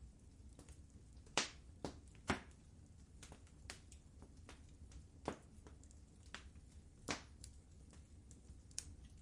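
Wood fire crackling in a fireplace: irregular sharp pops and snaps, two louder ones a second or so apart, over a steady low hiss of the flames.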